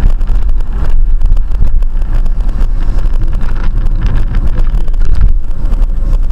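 Loud low rumble of a moving vehicle, with wind buffeting the microphone.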